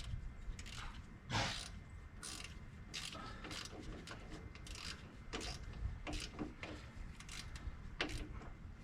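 Irregular light clicks and rattles of hand tools and small metal parts being worked, with a few louder knocks, while wiring connections on a garden tractor's starter solenoid are fastened.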